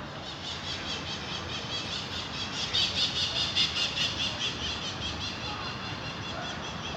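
Bird chirping in a rapid, even series of high notes, about nine a second, loudest around the middle, over a steady low background of distant traffic.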